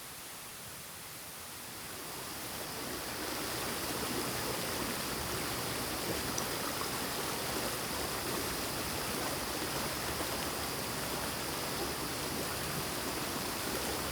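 Stream water flowing steadily over rocks, rising in level over the first few seconds and then holding steady.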